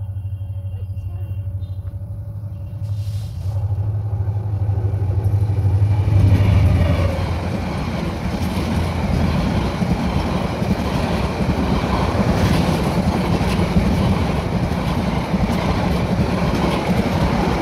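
Sonar Bangla Express intercity passenger train passing close by: the diesel locomotive's engine hum builds and the locomotive goes by loudly about six seconds in. The coaches follow in a steady rush of wheel and rail noise with clattering wheels.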